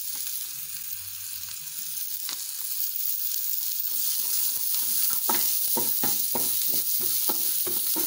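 Chopped red onions and spices sizzling in hot oil in a non-stick frying pan, a steady hiss. From about five seconds in, a wooden spoon stirs and scrapes the pan in quick repeated strokes.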